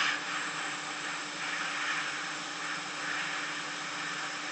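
Steady airy hiss of a hot air rework station blowing, with a faint steady hum beneath it. The station is running in its cool-down mode rather than heating.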